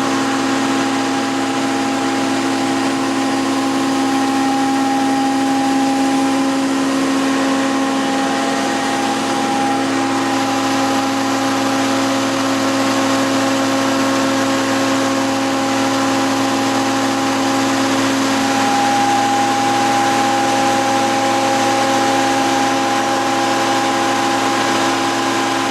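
A machine engine running steadily, with several constant pitched lines like a steady whine.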